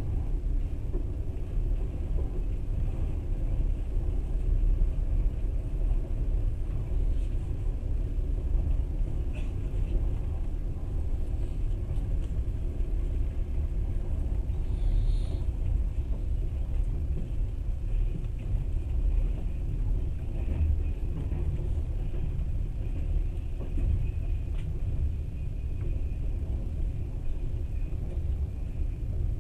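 Passenger train running along the track: a steady low rumble of wheels on rails, heard from inside the carriage.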